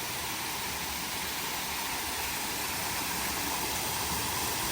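Steady rush of a small stream flowing over rocks, an even hiss.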